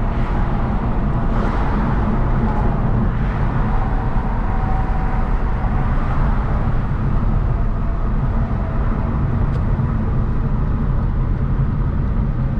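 Hyundai Genesis Coupe 3.8's V6 engine running steadily under way, with tyre and road noise as the car cruises.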